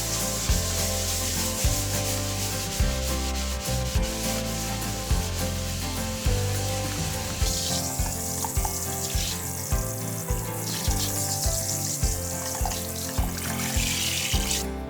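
Rubbing noise, steady for the first half and then in stretches, stopping abruptly near the end, over background music with a steady beat.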